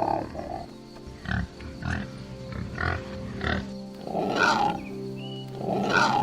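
An animal giving a series of short calls, then two longer, harsher and louder calls near the end, over steady background music.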